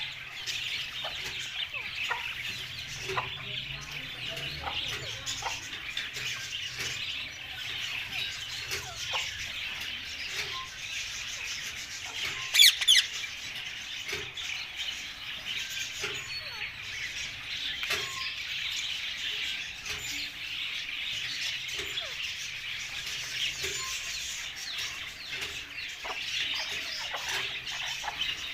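Birds chirping and chattering continuously in a dense stream of short calls, with one much louder, shrill call about halfway through.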